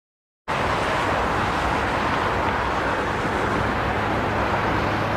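Aircraft engine noise: a steady, even rush that starts suddenly about half a second in, with a low hum beneath it.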